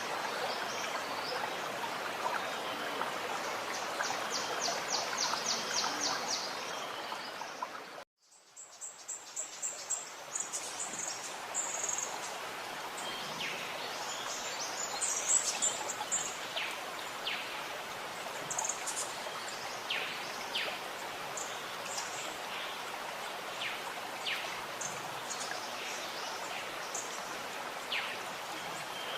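Stream water gurgling steadily, with birds chirping over it: a quick high trill about five seconds in, then scattered short chirps. About eight seconds in the sound cuts out briefly and fades back in.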